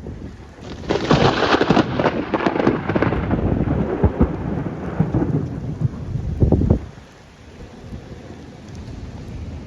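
Close lightning strike's thunder: a sudden sharp crack about a second in, then crackling, rumbling thunder that rolls on for about six seconds before dying away quickly. Rain falls steadily underneath.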